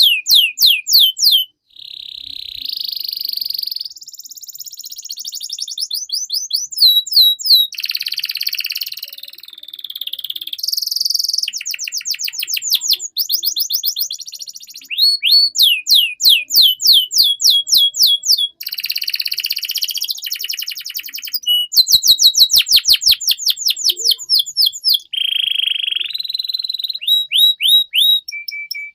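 Domestic canary singing a long unbroken song: phrases of quickly repeated down-sweeping notes alternate with buzzy rolling trills, the phrase changing every second or two.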